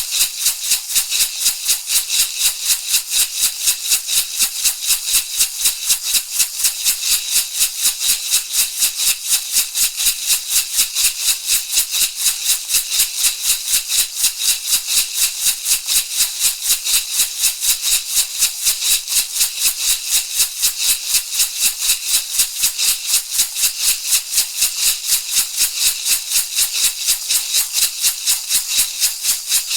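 Shamanic rattle shaken in a fast, steady, unbroken rhythm, each shake a bright, hissy rattle of seeds or pebbles.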